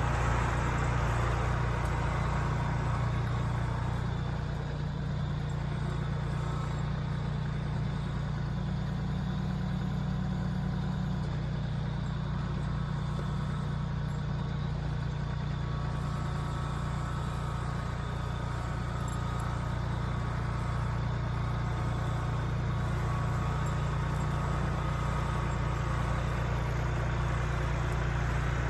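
Kubota L3901 compact tractor's three-cylinder diesel engine running steadily at an even pitch.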